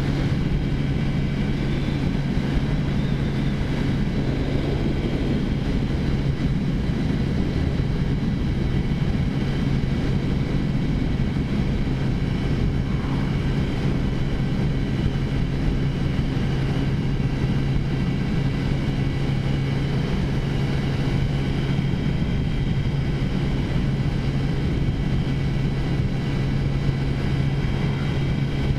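Taotao Zummer 50cc scooter's single-cylinder four-stroke engine running steadily at a constant cruising speed, heard from the rider's seat.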